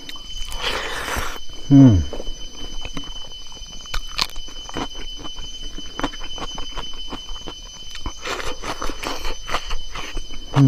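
Close-miked chewing of food, with many small wet mouth clicks and smacks. There is a short falling hum about two seconds in.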